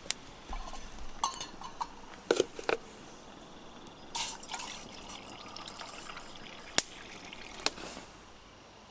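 Water splashing and dripping in short bursts, with a few sharp clicks in between.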